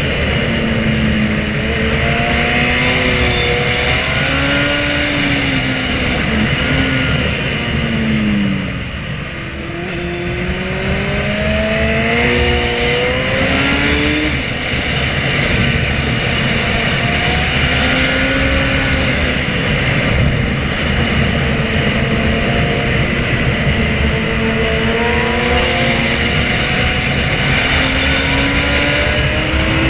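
Inline-four sport motorcycle engine pulling hard through the gears, its pitch climbing over and over and dropping at each shift. The engine eases off once, about a third of the way in, then builds again.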